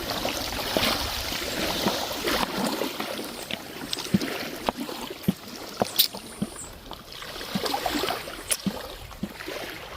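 Small waves washing up the shore and drawing back, the rush swelling and fading several times, with a few sharp clicks in between.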